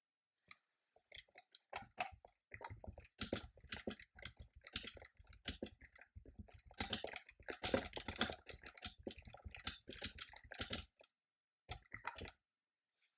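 Typing on a computer keyboard: a fast, uneven run of keystrokes, a short pause near the end, then a brief final burst of keys.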